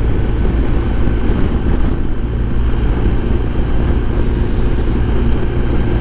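Steady riding noise from a 2022 BMW R1250 GS Adventure under way, its boxer-twin engine running at an even pace with no revving or gear changes.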